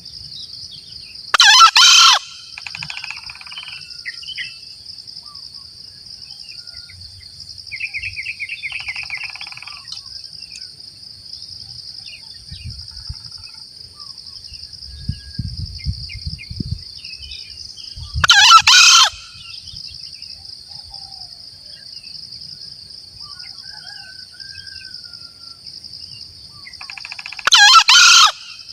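Green junglefowl crowing: three short, loud crows spaced about eight to ten seconds apart, over a steady high insect drone. A smaller bird gives a quick run of chirps between the first two crows.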